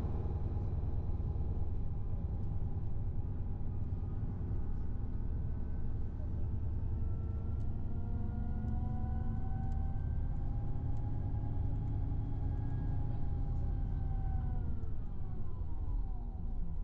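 Tour bus engine and road rumble heard inside the cabin. A whine climbs slowly through the middle, then drops away over the last couple of seconds as the bus slows.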